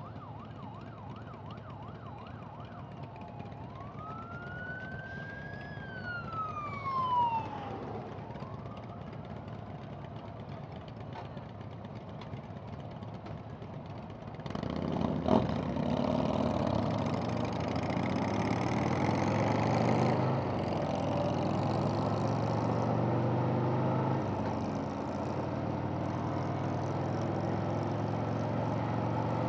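Harley-Davidson V-twin motorcycle engine running low, with a siren wailing once, rising and then falling, a few seconds in. About halfway through the engine revs up and gets louder as the bike pulls away, with wind noise on the helmet microphone.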